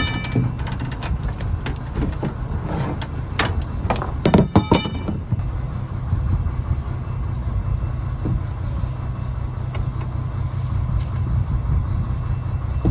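Fishing trawler's engine running steadily, with a few sharp metallic knocks in the first five seconds; the loudest, about four and a half seconds in, rings briefly.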